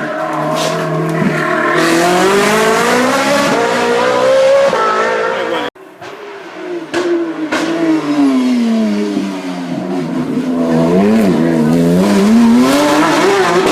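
Hillclimb race car engine revving hard, its pitch climbing, until the sound cuts off abruptly about six seconds in. Another race car's engine follows, its revs falling and then climbing again through the gears.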